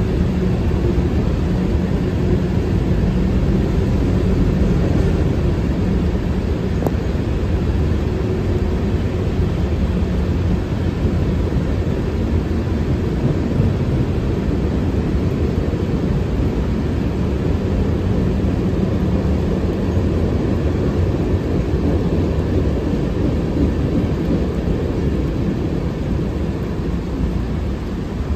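Freight train running past with a steady low rumble, an engine drone fading out about two-thirds of the way through.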